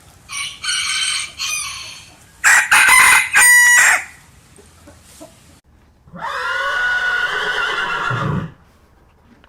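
Chickens calling: a few short clucks, then a loud cackle with a rapid pulsing stretch about three seconds in, and near the end one long rooster crow lasting a couple of seconds.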